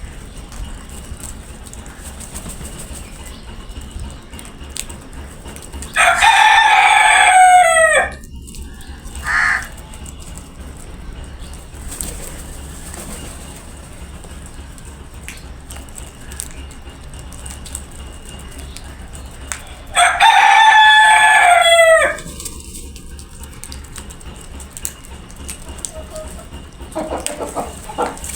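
Rooster crowing twice, about fourteen seconds apart; each crow lasts about two seconds and drops in pitch at the end. A short, brief call follows the first crow.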